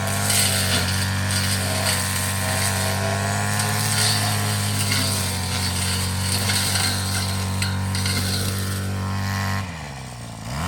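Petrol grass cutter running steadily at working speed. Near the end the engine drops toward idle, then picks up again.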